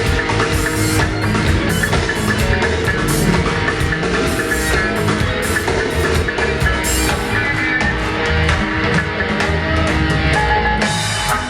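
Live roots reggae band playing an instrumental passage, with drum kit, bass and guitar. The bass and drums drop out near the end.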